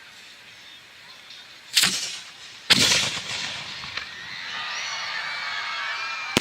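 Hand-fired 3-inch aerial firework shell going off: a sharp report about two seconds in, then a louder bang just under a second later that rings out and fades. Another sharp bang comes right at the end.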